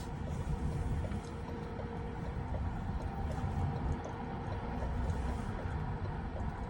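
Steady low rumble of an idling vehicle engine, with faint steady hum tones and light regular ticking.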